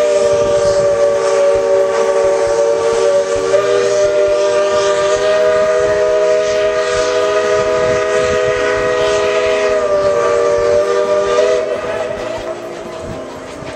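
Steam locomotive's chime whistle blowing one long, steady chord of several notes, which stops about eleven and a half seconds in and dies away, with a hiss of steam under it.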